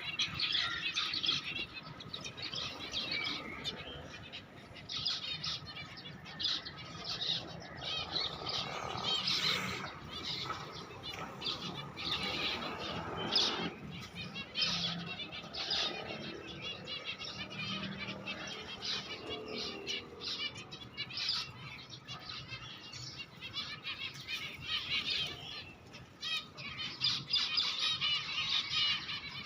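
Many small birds chirping, with quick high calls overlapping continuously and growing busier near the end.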